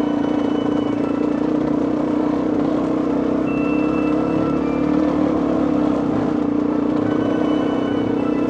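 Two-stroke dirt bike engine running steadily at an even speed, with no revving up or down.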